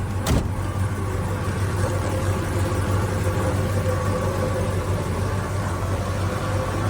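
Oldsmobile Rocket 350 V8 idling steadily, with one sharp click about a third of a second in. The owner calls the engine tired.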